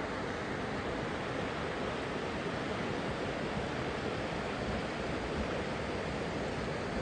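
River rapids rushing steadily, an even wash of white-water noise with no breaks.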